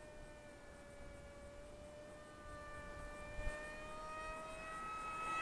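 Whine of a small RC plane's electric motor and pusher propeller in flight. It is faint at first and grows steadily louder over the last few seconds as the plane comes closer.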